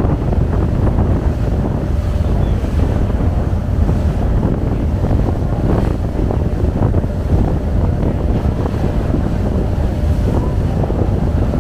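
Passenger ferry under way: wind buffeting the microphone over a steady low rumble and the rush of water.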